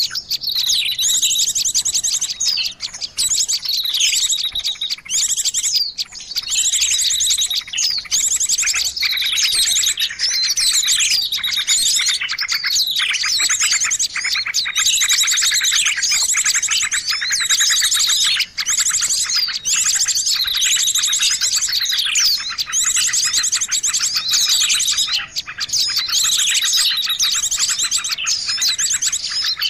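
Small songbirds chirping and trilling in a dense, continuous chatter of rapid high notes and short falling chirps, a lure recording of the kind used to draw small wild birds in.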